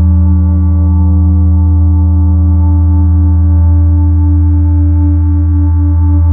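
Electronic ambient drone from analog synthesizers and sine-wave generators: a loud sustained low bass tone with several steady higher tones layered above it, the middle tone beginning to waver near the end.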